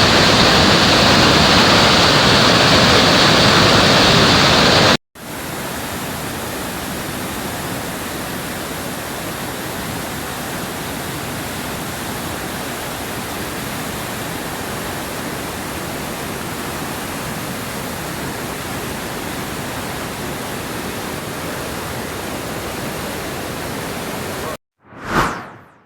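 Waterfall rushing as a loud, steady roar of white water. About five seconds in it cuts off abruptly and returns as a quieter, steady rush, and near the end a short sound swells and fades before silence.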